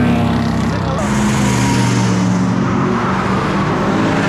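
Car engine running loud and close, its pitch shifting a little as the revs change.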